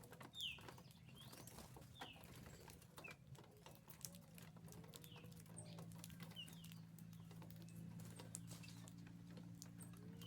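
Birds at a feeder: short high chirps every second or so, soft low cooing notes, and many faint small clicks. A faint steady low hum joins about four seconds in.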